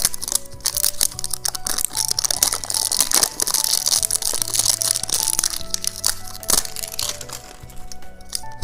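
Close, dense crinkling and crackling from dice candy being handled, heaviest in the middle, over soft background music.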